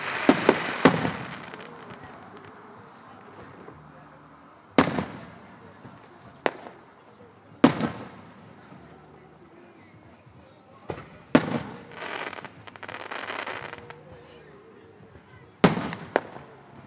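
Aerial fireworks shells bursting during a display finale: a quick cluster of booms at the start, then single booms every second or few, a longer stretch of crackling around two-thirds of the way through, and two more booms near the end.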